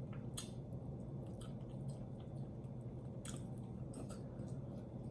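Close-up wet mouth sounds of eating sauced roast chicken: soft chewing with scattered sharp, sticky smacks and clicks at irregular intervals.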